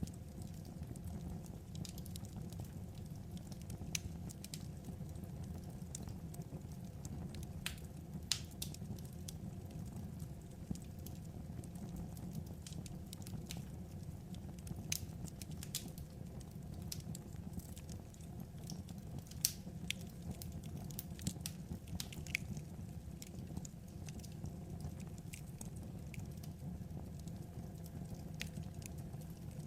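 Burning firewood crackling, with scattered sharp pops at irregular intervals over a steady low rumble.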